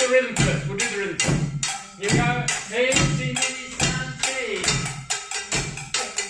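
Voices singing or chanting a rhythm song over a steady beat of struck percussion, about three to four strikes a second.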